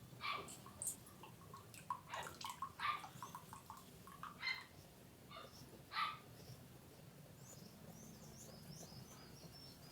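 A dog giving a string of short yips and whines, several in the first few seconds, the last and loudest about six seconds in.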